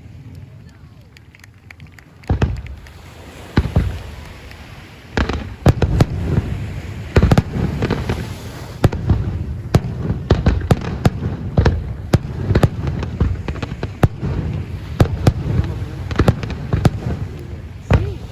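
Aerial fireworks going off: scattered sharp bangs start about two seconds in, then build into a dense, continuous barrage of explosions over a rumbling low end.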